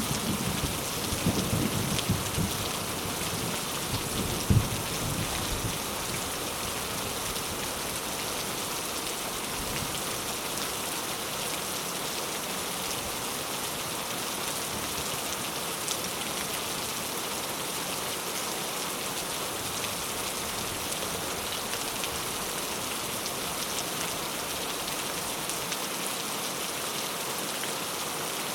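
Steady heavy rain falling, an even hiss throughout, with a low rumble of thunder dying away over the first few seconds.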